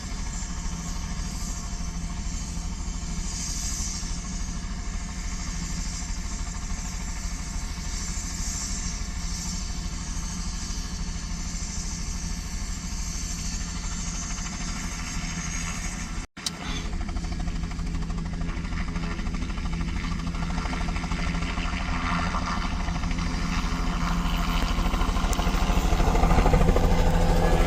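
Crop-dusting helicopter's turbine and rotor running steadily with a fast low rotor beat, growing louder over the last several seconds.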